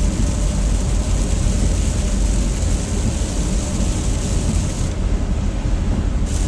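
Steady road noise heard from inside a car at highway speed: a low rumble of engine and tyres with a hiss of tyres on wet pavement. The high hiss drops away for about a second near the end.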